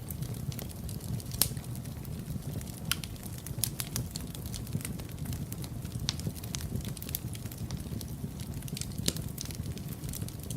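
Fireplace fire burning: a steady low rumble of flames with frequent, irregular sharp crackles and pops, the loudest pop about a second and a half in.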